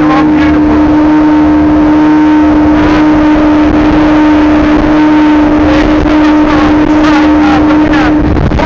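Outboard motor on a small boat running steadily at speed with the hull on the plane: a loud, steady engine hum, with scattered short knocks over the water and wind noise.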